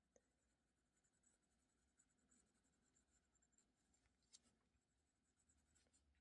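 Very faint scratching of a coloured pencil on paper as an area is shaded in, with a few small taps.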